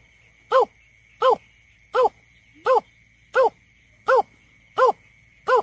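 Greater painted-snipe calling: a steady series of short, low hooting notes, about eight of them, one every 0.7 seconds. It is played as a lure call for bird surveys.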